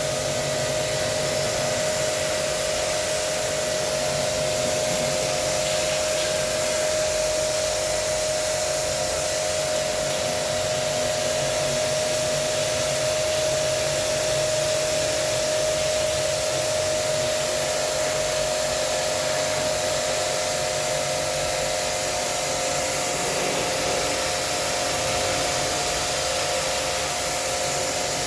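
Electric pressure-washer jet pump running steadily while spraying water to clean an air conditioner, with a constant mid-pitched whine over the hiss of the spray.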